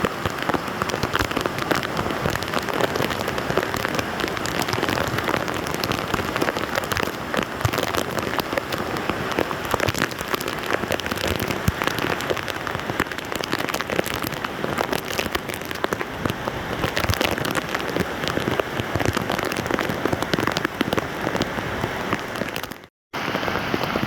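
Heavy rain falling on a flooded street, a steady dense patter of drops. It cuts out for a moment near the end.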